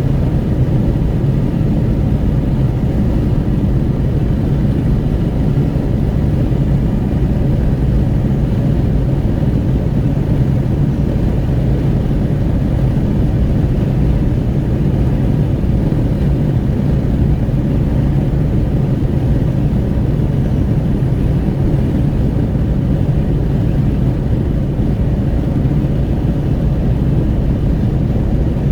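Steady rush of wind at an open window, with tyre roar and engine hum, inside a Renault Kwid 1.0 cruising on the highway. The deep, low rumble holds even throughout.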